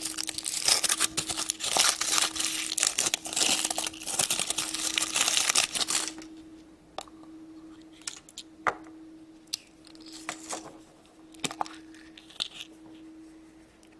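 Crinkly wrapper of a chocolate surprise egg being crumpled and torn open by hand for about six seconds, then a few scattered light clicks and rustles. A faint steady hum runs underneath.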